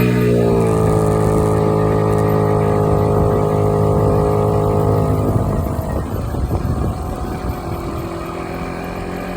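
Small moped engine running under way, its pitch easing down in the first half-second and then holding steady for about five seconds. It then drops to a lower, quieter note as the moped slows.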